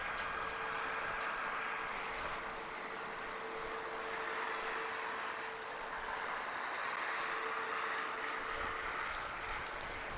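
Steady rushing noise of storm wind and river water, with a steady hum underneath. A few faint high whines fade out about two seconds in.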